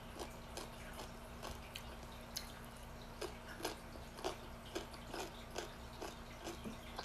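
A person chewing food with the mouth close to the microphone: soft, wet mouth clicks about twice a second. A faint steady hum runs underneath.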